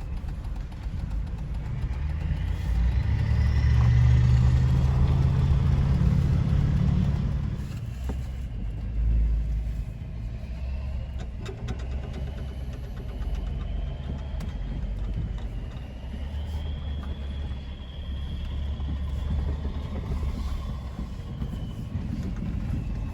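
Engine running steadily with a low rumble, louder for a few seconds between about two and eight seconds in.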